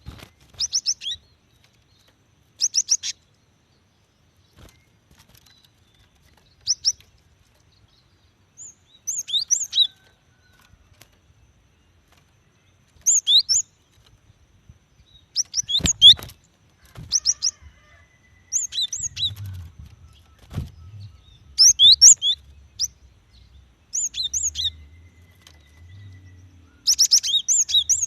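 Female cinereous tit (gelatik batu) calling: short bursts of rapid, high chirps repeated every one to three seconds. A sharp knock sounds about halfway through, and a faint low rumble sits under the calls in the second half.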